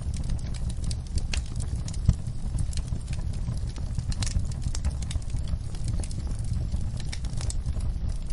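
Wood fire crackling in a fireplace: irregular sharp pops and snaps over a steady low rumble of the flames, with one louder pop about two seconds in.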